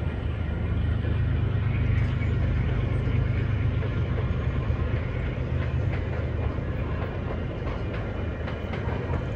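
Diesel MBTA commuter rail train moving away just after passing: a steady low rumble of engine and wheels on rails that slowly fades, with a few faint clicks from the wheels.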